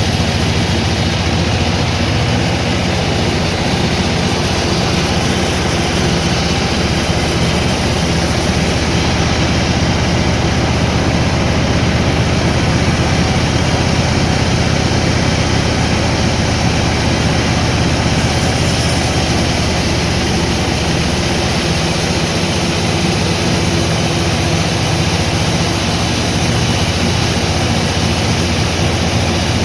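Sawmill machinery running steadily: a loud, even mechanical drone with a low hum underneath.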